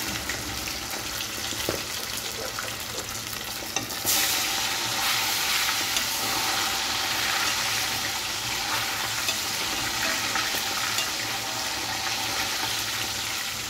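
Fish frying in hot oil in a pot: a steady sizzle that jumps louder and brighter about four seconds in and stays so.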